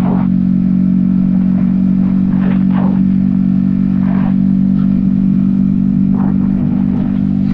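Yamaha XSR155's 155 cc single-cylinder engine running at a steady cruising speed, its note holding even, heard from a helmet-mounted camera. A few brief rushing noises come and go over it.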